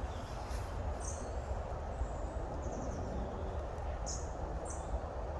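Small birds giving short, high chirps a few times, one a quick run of notes, over a steady low outdoor rumble.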